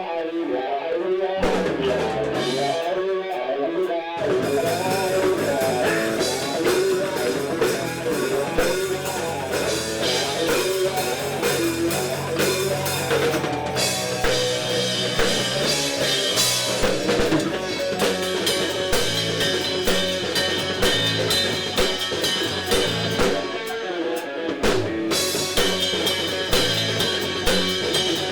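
Rock band playing live: electric guitar and drum kit. A guitar line with short breaks opens, and the full band with cymbals comes in about four seconds in.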